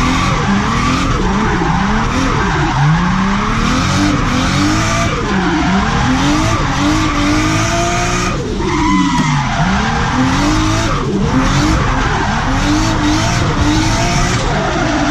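Turbocharged drift car's engine revving up and down over and over, roughly once a second, over the continuous noise of tyres skidding; about halfway through the revs fall away for a moment before climbing again.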